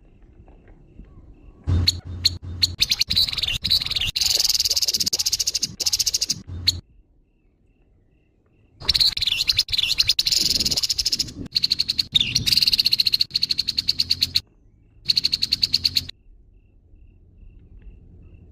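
Grey-headed babbler giving its harsh call: bursts of rapid, fast-repeated rasping notes lasting several seconds each, three bursts with short pauses between, a fourth starting near the end.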